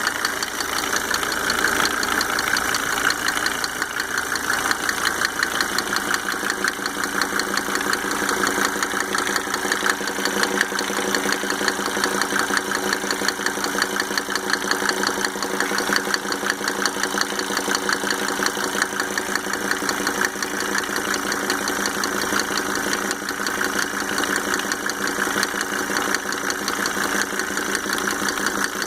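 Mercedes 300D W124 2.5-litre five-cylinder diesel engine idling steadily with a fast, even tick that the owner cannot trace, though all five injectors are freshly rebuilt with new Monark nozzles.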